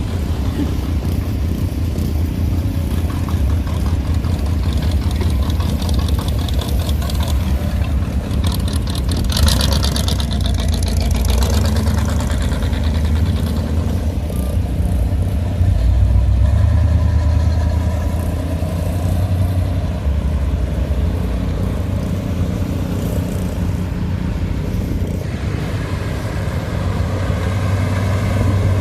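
Hot rod and classic car engines running as cars drive past one after another, a steady low rumble that swells as each one passes, with a louder, brighter pass about ten seconds in.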